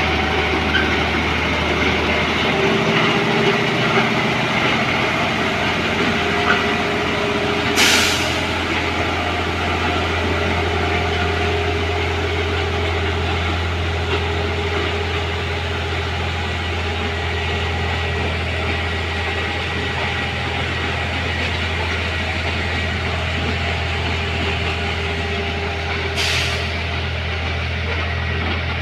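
Diesel engine of a rail vehicle idling with a steady low hum. Two short sharp hisses of released air come about eight seconds in and again near the end.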